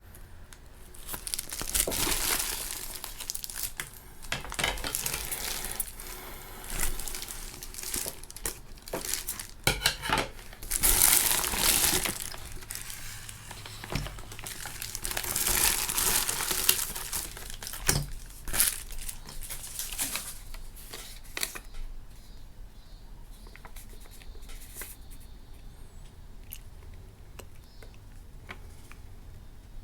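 Plastic packaging crinkling and rustling in irregular bursts, the sound of small accessories being unwrapped; about two-thirds of the way through it quiets to light handling with faint clicks.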